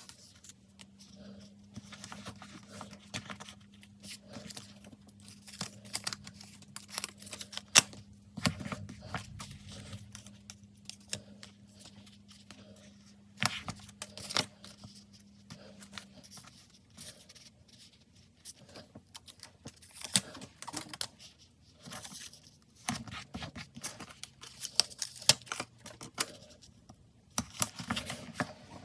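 Stickers being peeled off their backing sheets and handled on paper: irregular crackling peels, paper crinkles and small taps. A faint steady hum sounds under them for about the first half.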